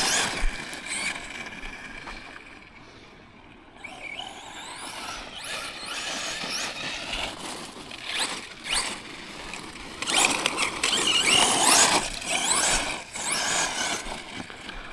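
Tekno MT410 2.0 RC monster truck's electric motor and drivetrain whining, rising and falling in pitch as the throttle is worked over rocky ground. It goes quieter about two seconds in and is loudest around ten to twelve seconds in.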